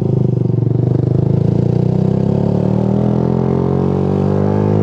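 Motorcycle engine running under the rider, its pitch rising steadily as the bike accelerates.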